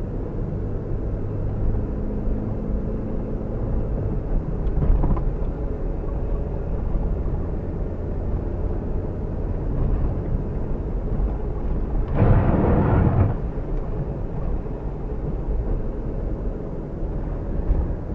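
Fiat Uno Mille EP's small four-cylinder engine running steadily as the car drives, with road noise. About twelve seconds in, a louder rushing noise lasts about a second.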